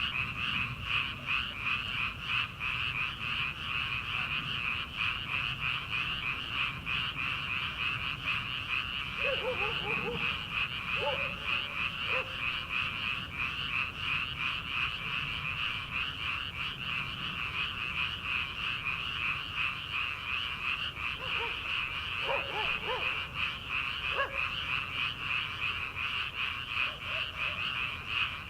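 Dense chorus of many rice-paddy frogs calling all at once: a continuous, rapidly pulsing din. A few lower, separate calls stand out about ten seconds in and again past twenty seconds.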